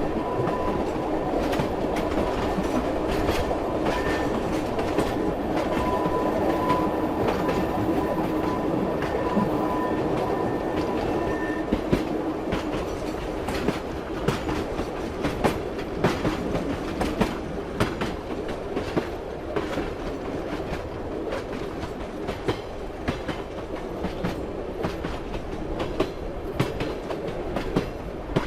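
A train running on rails: a steady rumble with the clickety-clack of wheels knocking over rail joints. A faint steady whine sounds through the first half and then fades, leaving the clicks more prominent.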